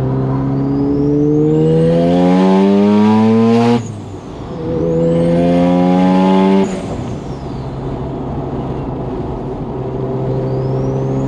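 Single-turbo Mazda FD RX-7 rotary engine heard from inside the cabin, pulling hard through two gears. Each pull rises in pitch and cuts off sharply at the shift, the first with a short rush of noise. A high whistle rises and falls over it, and the car then settles into a steady cruise.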